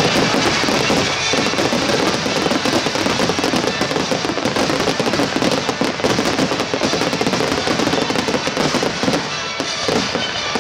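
Finale barrage of aerial fireworks: many shells bursting in rapid, overlapping succession, with the show's music playing along underneath.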